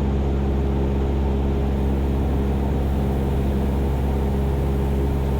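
Cessna 172's piston engine and propeller droning steadily in flight, a constant low hum of several tones.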